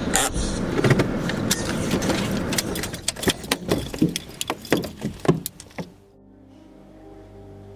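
Car noise with a dense run of sharp clicks and knocks, cutting off abruptly about six seconds in. Faint soft held music notes follow.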